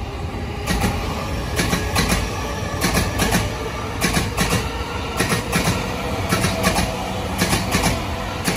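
Electric commuter train running past close by on elevated track: a steady rumble broken by repeated sharp wheel clacks, often in close pairs.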